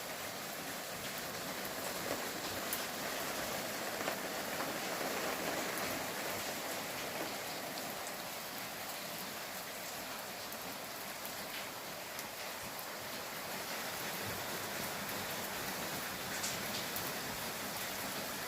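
Steady rain falling and pattering on surfaces, with an occasional sharper drop tick.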